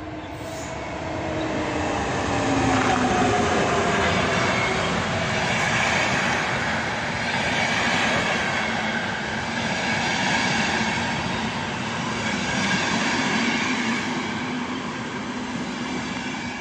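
Electric train passing close by, its wheels running on the rails. It swells up over the first couple of seconds, holds loud, then fades near the end. Early on a whine drops in pitch as it goes by.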